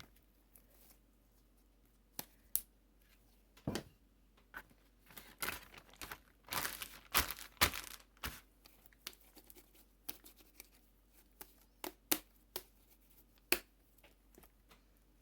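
Homemade slime being squeezed, pulled and pressed in the hands, giving off irregular sticky pops and crackles, busiest around the middle.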